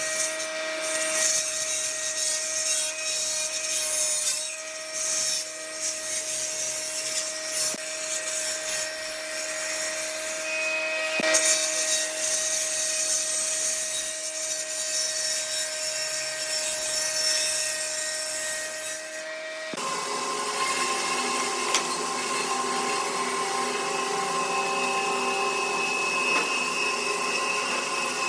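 A power tool running steadily against wood, its motor tone held level under the noisy rush of the cutting or abrading. About twenty seconds in, the sound switches abruptly to another tool with a different, higher set of tones.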